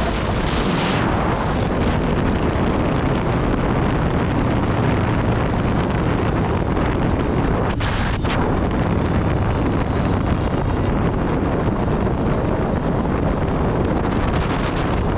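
Heavy wind noise on the microphone over a 2021 Aprilia Tuono V4 Factory's V4 engine running at speed while riding, with a brief whoosh about eight seconds in.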